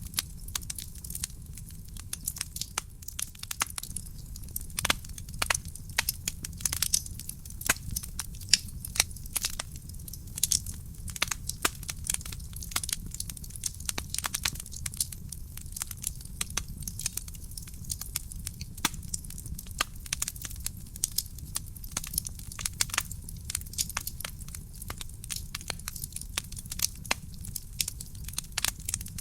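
Wood fire burning in a fireplace: frequent sharp, irregular crackles and pops from the burning logs over a low steady rumble of the flames.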